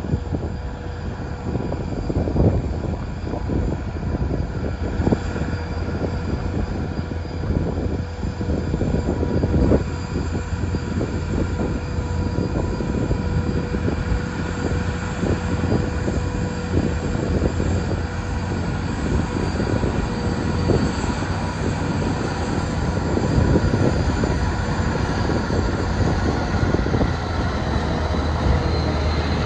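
John Deere 7330R tractor's six-cylinder diesel engine running steadily under load while pulling a plough, with a low hum and scattered knocks and rattles.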